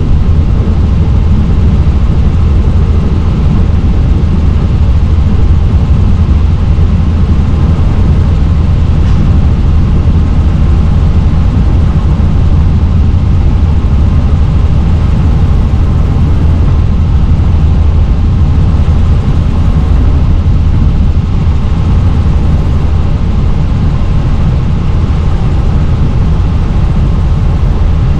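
Helicopter in flight: a loud, steady, deep drone of rotor and engine that holds unchanged throughout.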